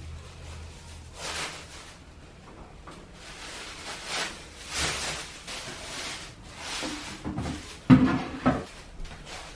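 Household handling noises: several soft rustles and swishes, then a sharp knock about eight seconds in and a second, lighter knock just after it.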